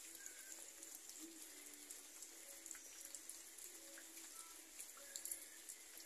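Faint light rain, with scattered drips and ticks of drops and a few short, faint chirps.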